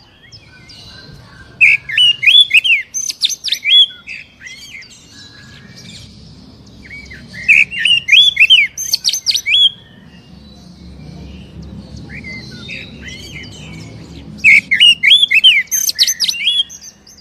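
Oriental magpie-robin (kacer) singing in three loud bouts of quick, sharply rising and falling whistled notes, a few seconds apart. This is lure song, played to a caged kacer to provoke it into singing.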